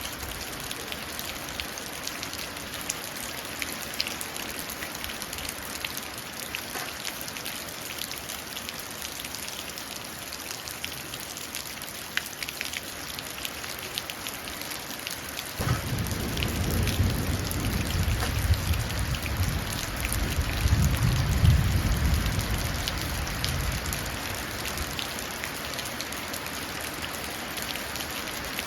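Steady rain falling and running into a puddle, with scattered drop ticks. A little past halfway a low rumble of thunder starts suddenly, swells and fades over about eight seconds.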